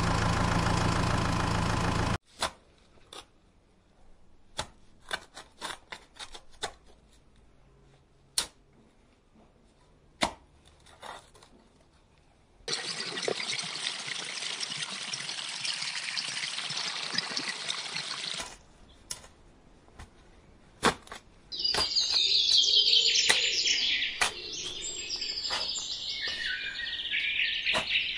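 Music cuts off about two seconds in, followed by scattered small clicks and taps. Water is then poured from a small plastic cup into a bowl of cement powder for about six seconds, and birds chirp through the last part.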